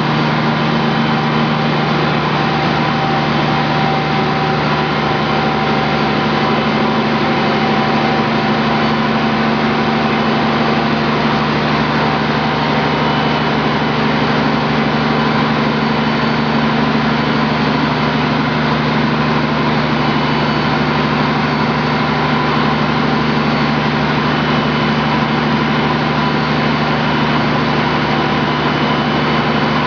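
484 kW Volvo Penta diesel engine running at a steady speed on a water-brake dynamometer test stand: a constant drone that does not rise or fall.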